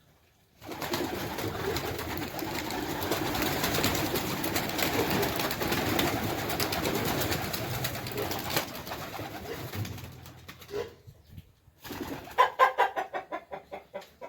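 A flock of pigeons cooing together in a dense, continuous chorus, which thins out about ten seconds in; near the end, a rapid run of about a dozen short calls.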